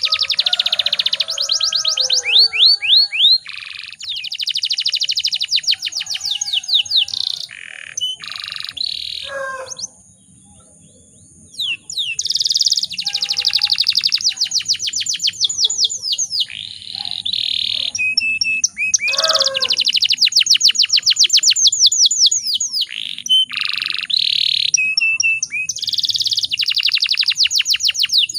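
Domestic canary singing a long song of fast rolling trills, rapid runs of repeated chirps and buzzy phrases. It breaks off for about two seconds near the middle, then starts again.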